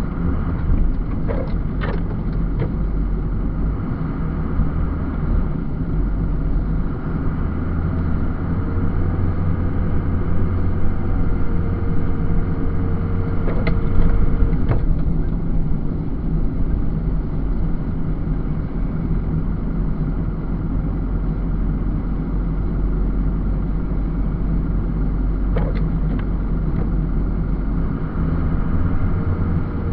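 Snowplow truck running steadily while plowing, a low rumble with a few short knocks now and then.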